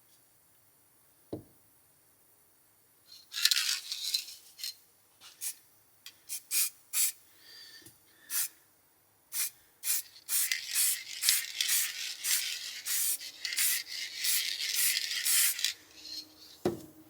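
Hand abrasive work on a part: rasping rubbing strokes, scattered at first, then quick and continuous for about five seconds. A short knock comes just after the start and another near the end.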